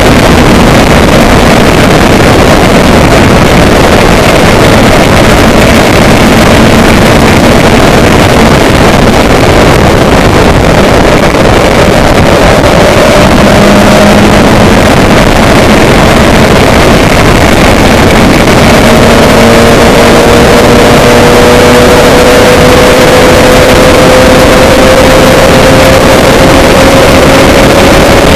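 A vehicle in motion: a loud, steady rush of wind and engine noise, with the engine's tone slowly rising over the last ten seconds or so.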